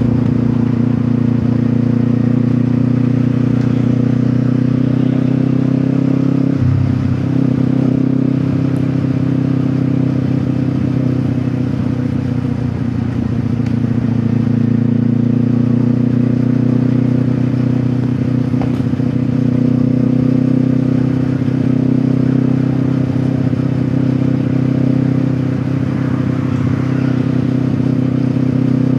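Kawasaki Ninja 400's parallel-twin engine through an Akrapovic exhaust, running at steady revs while riding, with a brief dip about seven seconds in, as of a gear change.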